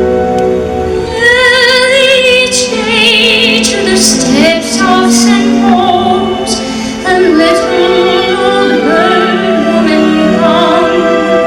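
A woman's soprano voice singing a slow ballad with wide vibrato over an orchestra. The voice comes in about a second in, after the orchestral introduction.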